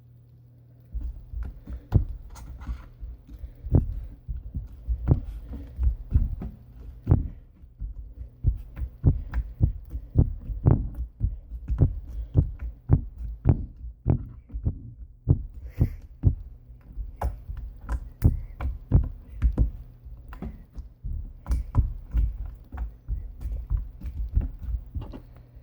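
Flarp noise putty being pressed and worked in its plastic tub, giving a rapid, irregular run of short, low, squelching pops, about two a second. They start about a second in and stop just before the end.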